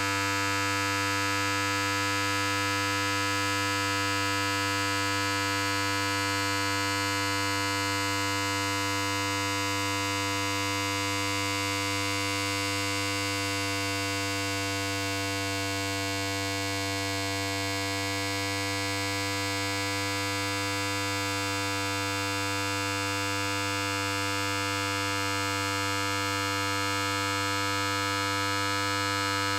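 Electric hair clipper running continuously: a steady, unchanging buzz with a strong low hum.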